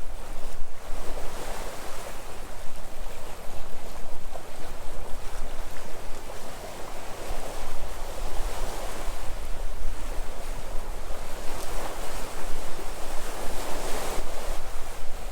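Sea waves washing onto the shore, a continuous surging wash that swells every few seconds, with wind rumbling on the microphone underneath.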